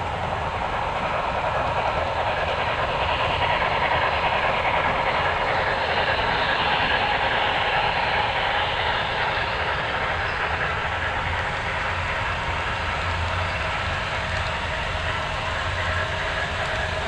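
HO scale model train running along the layout track, a steady sound that swells slightly a few seconds in.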